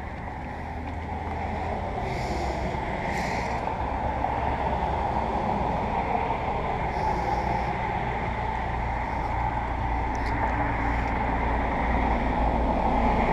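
A steady low mechanical hum under a rushing, wind-like noise, slowly growing louder.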